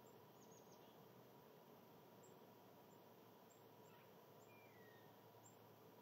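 Near silence with a faint steady hiss and hum. Small wild birds call faintly: a few quick high chirps near the start and one short falling whistle about four and a half seconds in.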